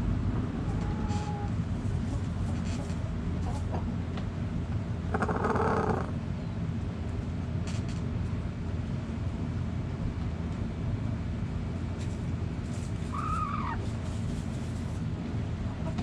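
Chickens calling over a steady low rumble: about five seconds in, a hen gives one loud, buzzy call lasting about a second, and near the end comes a short call that rises and falls in pitch.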